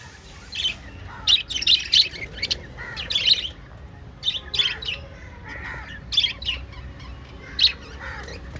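Pet lovebirds chirping and squawking in short shrill calls, often several in a quick run, with pauses between.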